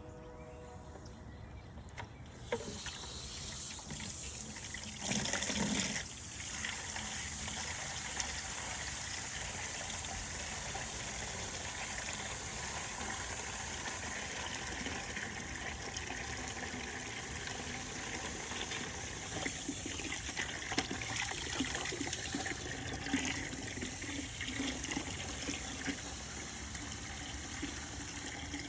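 Water running steadily, starting about two seconds in, with a brief louder gush about five seconds in.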